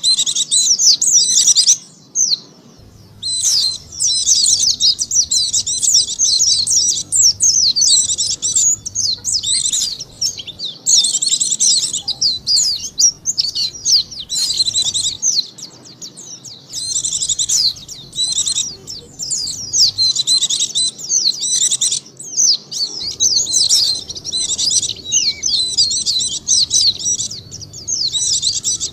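White-eye (pleci) song: fast, high twittering chirps in long phrases with short pauses between them, the kind of recording played as a lure call to draw white-eyes in.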